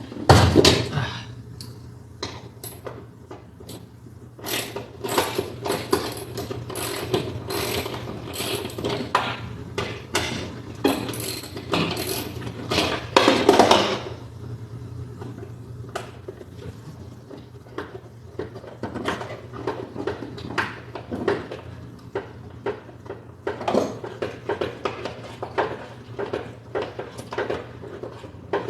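Metal hand tools working on car-seat fasteners: runs of quick ratchet-like clicking and clanking, with a heavy thump right at the start. The clicking is busiest in the first half, thins out in the middle and picks up again near the end.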